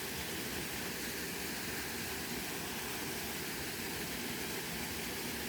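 Steady, even rush of falling water from a river waterfall.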